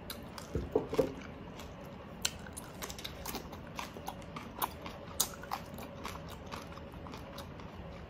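Crisp bites and chewing of raw cucumber slices: sharp crunches at irregular intervals, with a couple of soft knocks about a second in.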